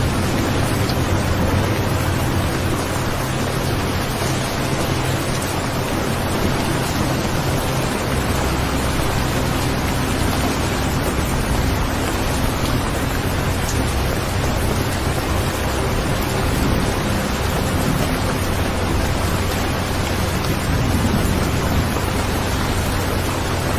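Recorded steady rain, an even hiss, with a low steady rumble beneath it.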